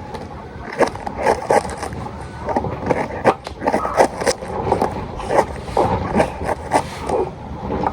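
Knife cutting through cabbage: a run of irregular, crisp cuts and scrapes.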